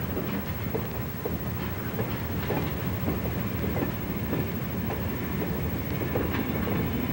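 VIA Rail diesel locomotives rolling slowly past: a steady rumble with irregular clicks of wheels over rail joints.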